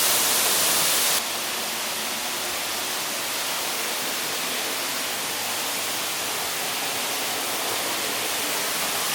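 Crystal Shower Falls pouring: a steady rush of falling water. The sound drops a little in level about a second in and then holds steady.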